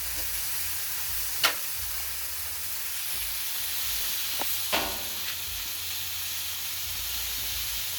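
Cubed chicken and pork sizzling steadily on a hot Blackstone flat-top griddle. Two sharp clicks stand out, about a second and a half in and again near five seconds.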